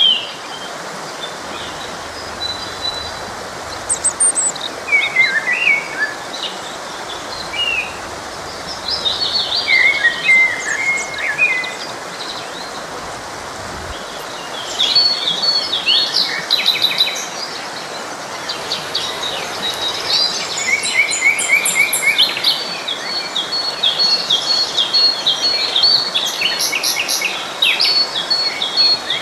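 Several songbirds singing and chirping over the steady rush of a flowing stream. The birdsong gets busier and more continuous about halfway through.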